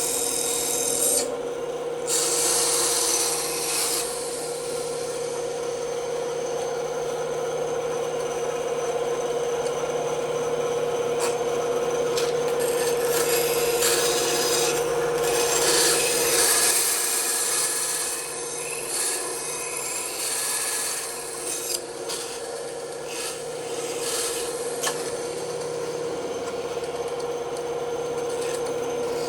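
Bandsaw running with a steady hum while its blade cuts through wood; the rasping cutting noise swells and eases as the piece is fed, loudest around two to four seconds in and again between about twelve and seventeen seconds.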